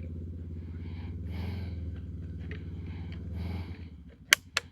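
An engine idling steadily, which stops about three and a half seconds in, then two sharp clicks in quick succession near the end.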